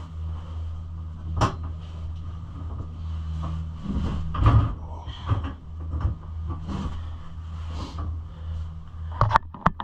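Plastic body panels of a pit bike being handled and fitted: scattered clicks and knocks, with a quick cluster of sharp knocks near the end, over a steady low hum.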